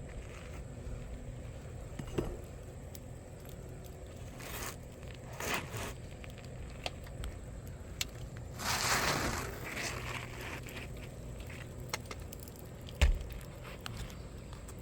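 Asphalt roof shingles being worked by hand: scattered crackling and scraping, a longer crackling scrape around the middle, and a single sharp knock near the end.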